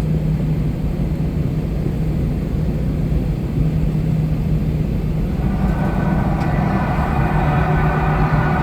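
Cabin noise of an Airbus A321-200 on the ground before takeoff: a steady low hum of the aircraft's engines and systems, with a higher whine joining about five and a half seconds in.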